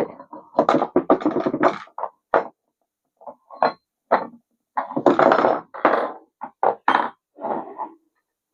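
Metal knocks and clunks from a baler's scale-lock mechanism being worked by hand, in a string of short, irregular bursts with brief gaps between them.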